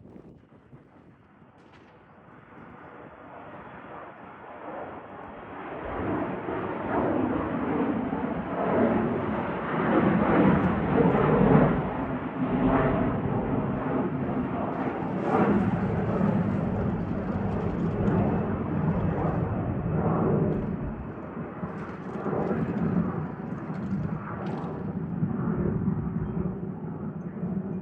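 Embraer E175 jet airliner taking off, its two CF34 turbofan engines at takeoff thrust. The engine noise grows louder over the first six seconds, then stays loud and ragged with a crackle as the jet passes and climbs away.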